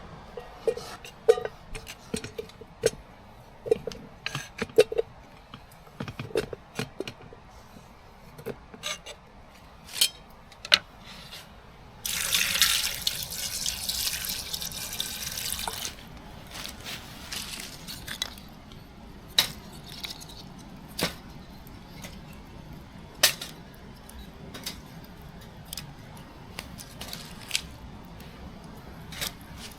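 Water sloshing and dripping, with scattered clicks and knocks of handling. About twelve seconds in, a louder hiss of water lasts about four seconds.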